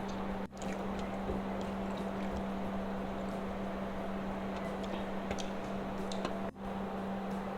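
Close-miked eating: chewing mouthfuls of fried rice with small wet mouth clicks, over a steady electrical-sounding hum. The sound cuts out briefly twice, about half a second in and near the end.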